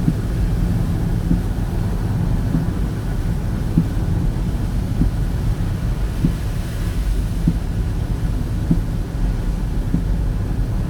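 Car driving on a highway: a steady low rumble of engine and tyres, with a light knock about once a second.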